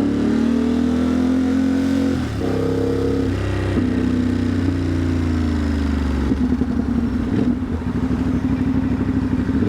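Ducati Monster's V-twin engine at low speed in stop-and-go traffic. The note rises and drops a few times with the throttle in the first half, then runs rougher and more uneven at low revs.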